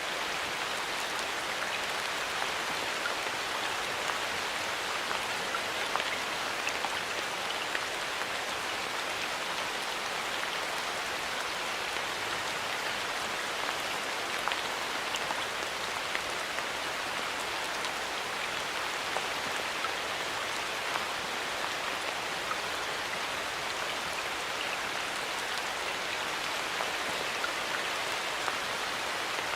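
Steady rain falling in a forest, a continuous patter of many small drop hits with no pauses.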